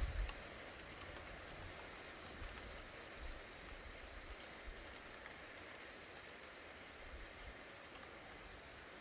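The tail of a thunder rumble stops abruptly right at the start, then a steady, soft hiss of rain carries on, with faint low rumbling beneath it.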